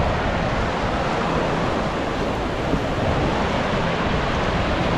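Ocean surf washing onto a sandy beach, a steady rush of waves, with wind rumbling on the microphone.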